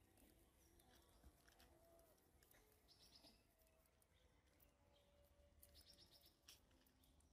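Near silence with faint bird chirps, including a short rapid trill about three seconds in and another near six seconds, and a few faint clicks.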